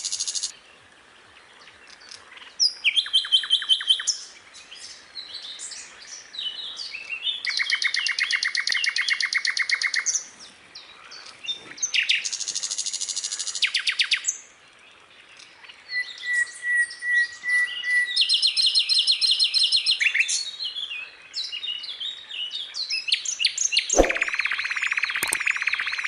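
A lark (chim sơn ca) singing a long, varied song of rapid trills, fast runs of repeated notes and short chirps, broken by brief pauses. A dense, loud run of notes starts near the end.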